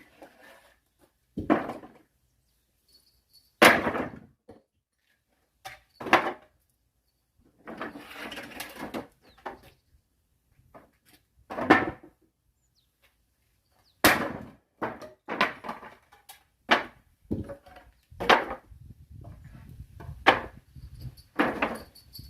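Axe splitting firewood: a series of sharp chopping strikes into logs, a couple of seconds apart at first and coming faster, about one a second, in the second half.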